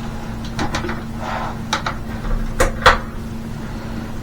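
A handful of sharp clicks and knocks, as of hardware being handled, over a steady low hum.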